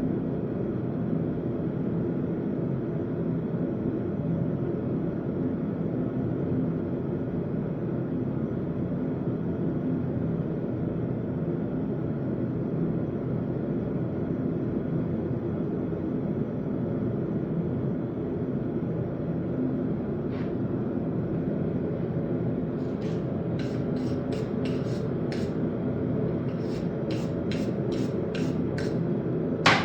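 Forge running steadily, a constant rushing noise with a low hum in it. About two-thirds of the way through, a run of light, sharp taps comes in at roughly two or three a second.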